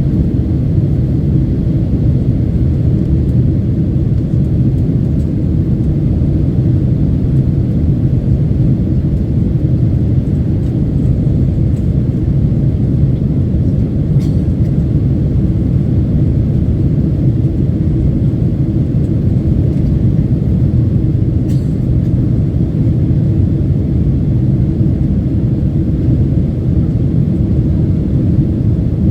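Steady low rumble of engine and airflow noise inside the cabin of a Boeing 767-300ER airliner after takeoff, with two faint clicks about midway.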